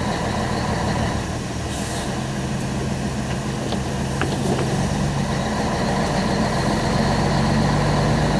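Truck engine running steadily on the road, heard from inside the cab, with a low, even engine hum under road noise.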